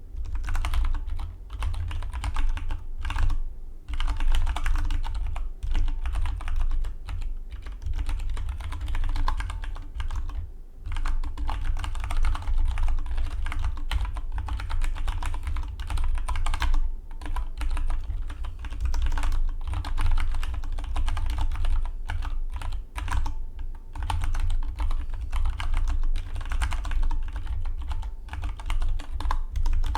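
Fast typing on a Dygma Defy split mechanical keyboard: a continuous stream of key clicks, broken by short pauses a few times.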